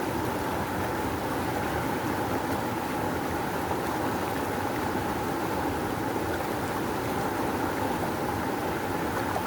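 River water rushing, a steady full flow.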